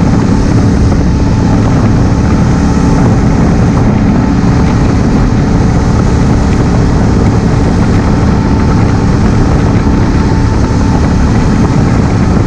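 Honda Africa Twin CRF1000L's parallel-twin engine running steadily under way, mixed with wind noise, as heard from a helmet-mounted camera.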